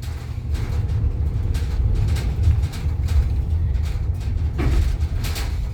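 Steady low road and engine rumble inside a moving car, with scattered short knocks and rattles.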